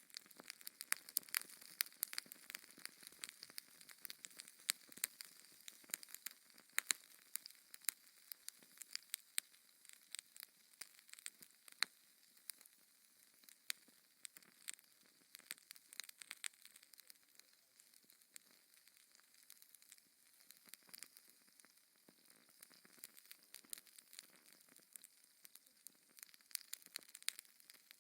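Wood fire in a fireplace crackling: many sharp pops and snaps over a faint hiss, busiest in the first half and thinning out after about twelve seconds.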